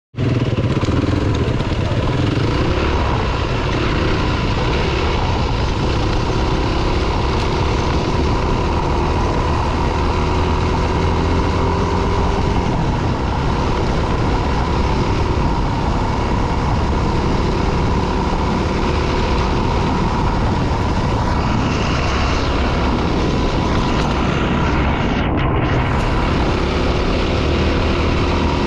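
Dirt bike engine running steadily while riding, with heavy wind rumble on the microphone.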